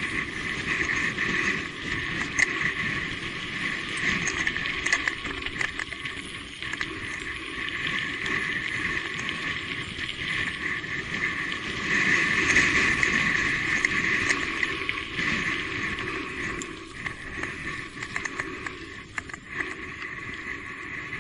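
Electric mountain bike being ridden along a trail: a steady running noise with scattered clicks and rattles.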